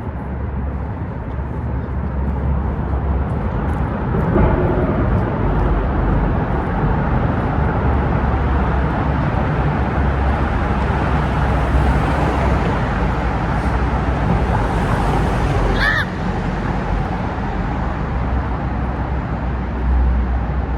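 Steady road traffic noise from vehicles passing close by, heavy in the low end. A short high squeak about three-quarters of the way through.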